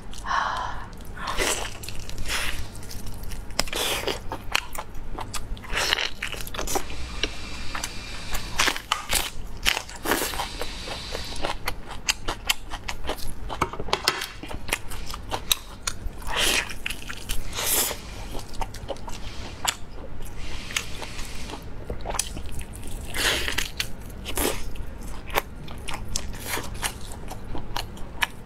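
Close-miked eating of a large roasted beef rib: repeated bites and chewing with crisp crunches at an irregular pace.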